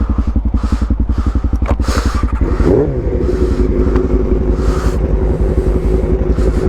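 Motorcycle engine idling with an even, rapid pulse, with a brief rise and fall in pitch about three seconds in.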